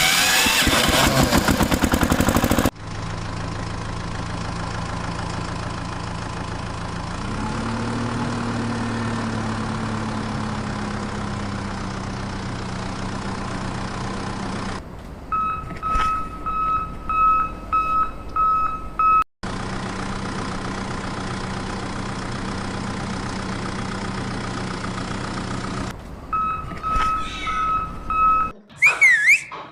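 A loud rattling clatter, then a vehicle engine running steadily with a brief rise in pitch. Twice a reversing beeper cuts in with a regular high beep.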